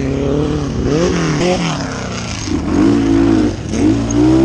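An engine running and revving, its pitch rising and falling a couple of times and then holding higher near the end.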